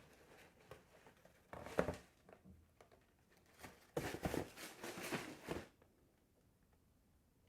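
Rustling handling noise from unboxing a pair of shoes and their packaging, in two bursts: a short one about one and a half seconds in, and a longer one from about four to five and a half seconds in.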